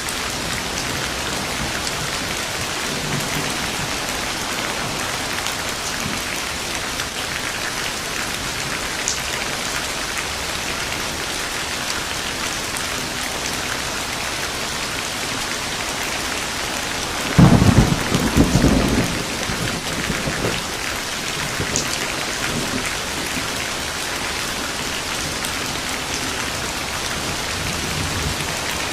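Steady rain falling, with a sudden crack of thunder a little past the midpoint that rumbles for about two seconds.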